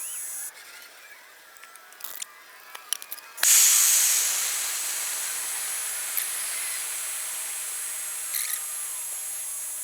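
A 12-volt blower made from a hairdryer blowing air into a charcoal furnace with a steady hiss and a high motor whine. It cuts out about half a second in, and after a few small clicks it comes back on suddenly and loud about three and a half seconds in, then settles to a steady rush.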